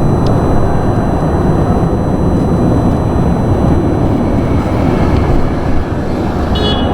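Steady, loud vehicle rumble with wind noise, with no clear engine pitch. A short high-pitched tone sounds near the end.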